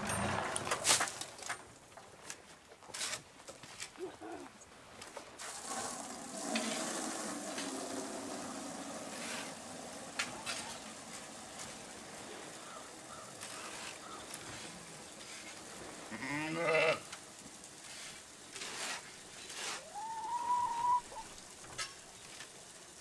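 Bleating livestock: one bleat with a wavering, shaky pitch about sixteen seconds in and a shorter, higher call around twenty seconds, among scattered clicks and knocks.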